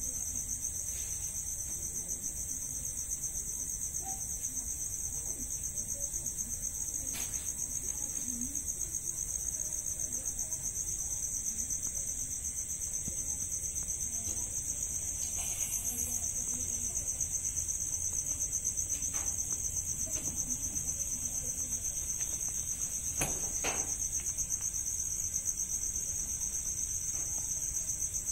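Insects, likely crickets, trilling in a steady, high-pitched, unbroken drone, with a few faint clicks over it.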